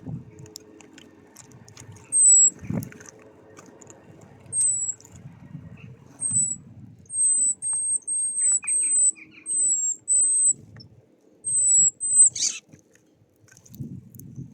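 A small songbird calling: a series of about a dozen very high, thin whistled notes, each short and falling slightly in pitch. Between them come low, dull knocks and rustling.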